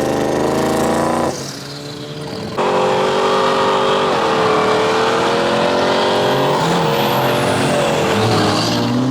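Car engine held at high revs, its pitch fairly steady with a slight dip about four seconds in. The sound drops abruptly about a second in and comes back a second later.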